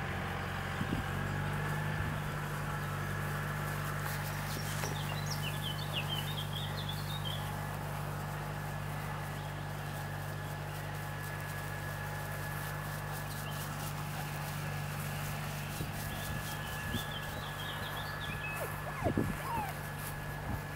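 A small bird twittering in short high phrases, once about five seconds in and again near the end, over a steady low hum.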